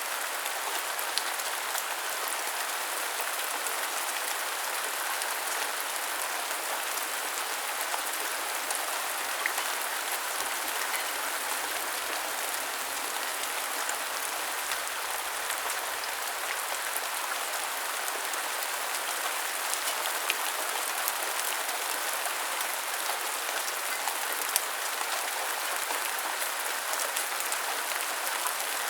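Steady rain falling and pattering on surfaces, with scattered small drop ticks.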